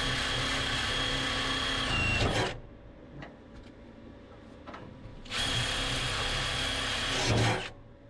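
Handheld power tool whirring at high speed in two runs of two to three seconds each, with a short pause between them holding a few small clicks. Its high whine drops slightly just before the first run stops.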